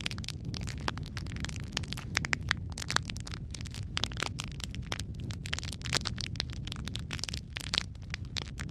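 Wood fire in a fireplace crackling, with dense, irregular sharp pops over a steady low rumble of burning.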